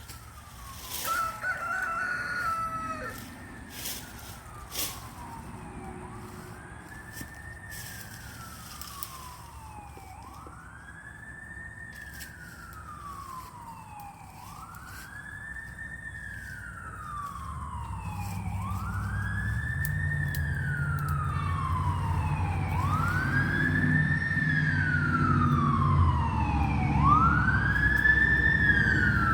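Emergency vehicle siren wailing, each cycle rising quickly and falling slowly about every three and a half seconds, and growing louder as the vehicle approaches. A vehicle engine rumble builds under it in the second half. A rooster crows briefly about a second in.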